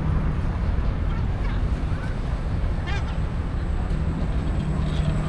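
Steady low hum of traffic and engines, with a short gull call about three seconds in.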